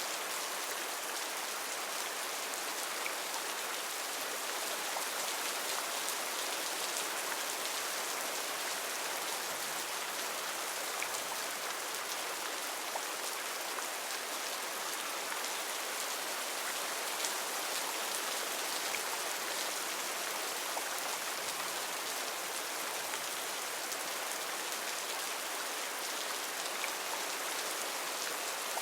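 Heavy rain falling steadily on foliage, a constant hiss with the odd sharper drop tick.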